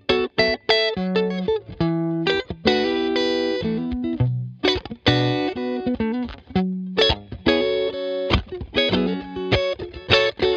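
Guitar playing: picked notes and chords in short phrases, broken off abruptly a few times.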